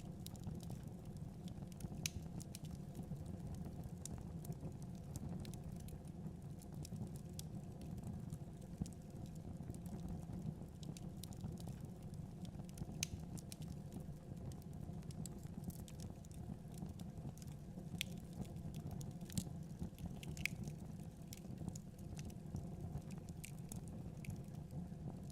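Fire burning in a fireplace: a steady low rumble of flames with irregular sharp crackles and pops scattered through it.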